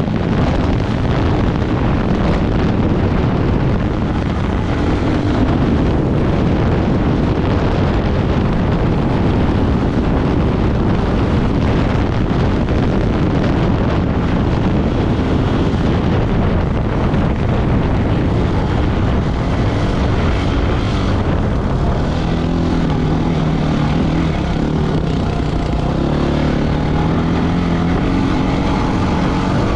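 Off-road motorcycle engine running steadily under way, mixed with heavy wind rush. In the last third a clearer engine note comes through and climbs in pitch near the end.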